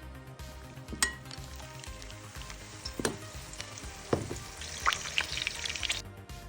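Chicken patties frying in hot oil: a steady sizzle with spattering and crackling, busiest in the last couple of seconds before it stops. Three sharp knocks, about one, three and four seconds in, stand out above the sizzle.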